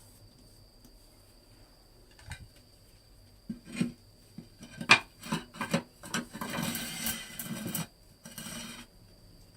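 Scraping and knocking handwork: a few sharp knocks, then a longer rasping scrape and a short one near the end, over a steady high chirring of insects.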